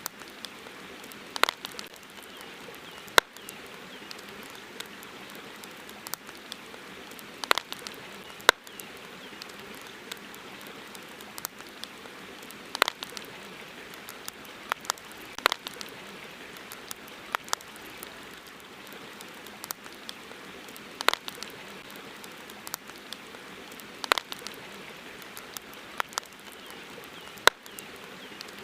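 Campfire crackling: sharp, irregular pops and snaps from burning wood over a steady soft hiss.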